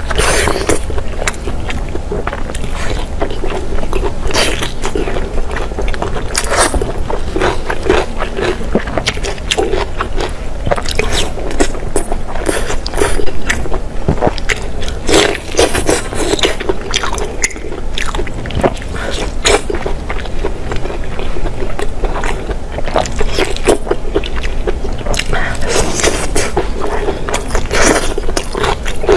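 Close-miked eating: a person biting and chewing food, heard as a steady stream of irregular short clicks and smacks.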